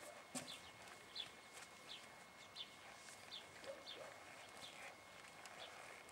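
Faint bird chirps, short high calls repeating every half second or so, with a single sharp knock about half a second in.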